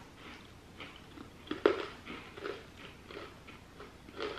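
Crunching and chewing of a hard Snyder's of Hanover Hot Honey pretzel piece, a string of irregular crunches with the sharpest, loudest bite about one and a half seconds in.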